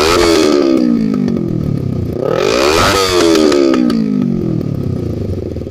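Kawasaki Ninja 250R's parallel-twin engine with a tuned exhaust being revved in place: the revs fall from a peak at the start, climb in a second throttle blip to another peak about three seconds in, then drop back toward idle near the end.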